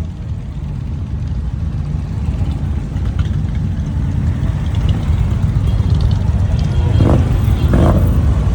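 Motorcycle engines running with a low rumble that grows steadily louder, with two short sharper sounds near the end.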